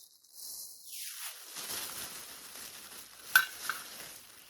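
Rustling and shuffling as small collectibles are handled and sorted, with a sharp click about three and a half seconds in and a lighter one just after.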